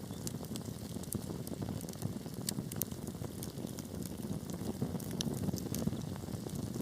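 Wood fire burning: a steady low rush of flame with many sharp crackles and pops scattered irregularly through it.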